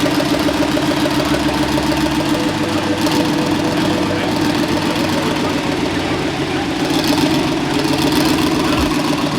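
Car engine idling steadily, a close, even rumble.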